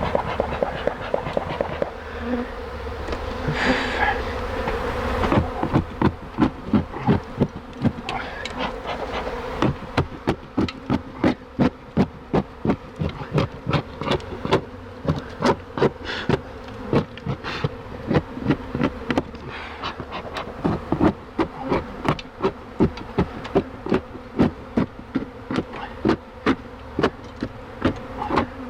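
Dense buzzing of a large mass of honey bees around a hive: a steady drone, joined from about five seconds in by sharp ticks, two or three a second.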